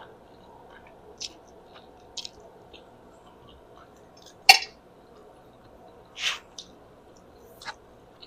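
Close-miked mouth sounds of eating spaghetti: scattered wet smacks and clicks of chewing, about five in all, the loudest a sharp click a little past halfway and a short hissy one about six seconds in.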